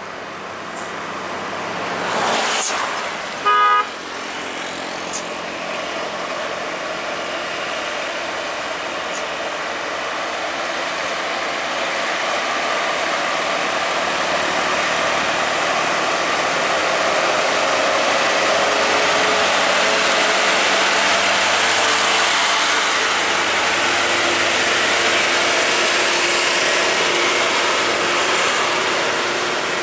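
Heavy truck traffic on a steep highway grade, with engine noise building from about ten seconds in and staying loud. One short, loud horn toot comes about three and a half seconds in.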